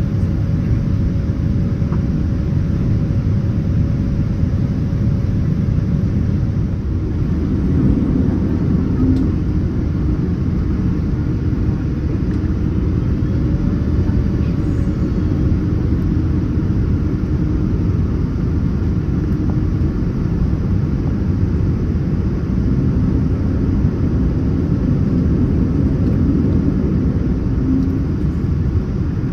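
Cabin noise inside a Boeing 787-9 airliner: a steady low rumble of the engines and airflow.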